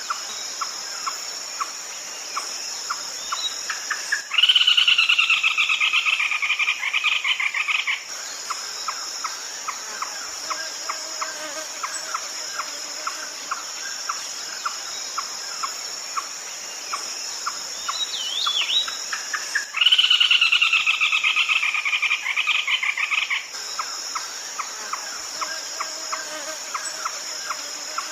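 Red-legged crake calling twice, each a rapid, pulsed call lasting about three and a half seconds and dipping slightly in pitch, the second about fifteen seconds after the first. Between the calls there is a steady high insect chorus and a regular soft ticking.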